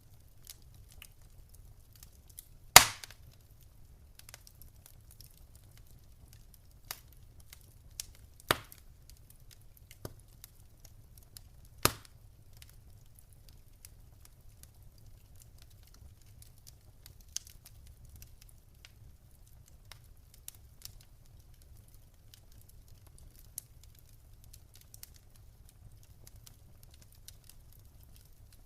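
Wood fire in a fireplace crackling, with scattered sharp pops from the burning logs, the loudest about three seconds in and two more strong ones later, over a faint low rumble.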